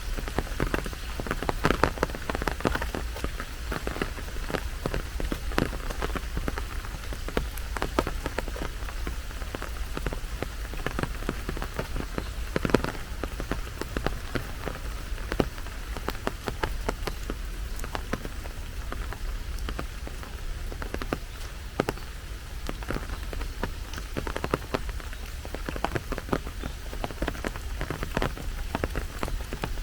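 Heavy rain falling, with many separate close drop impacts over a steady wash of rain and a steady low rumble underneath.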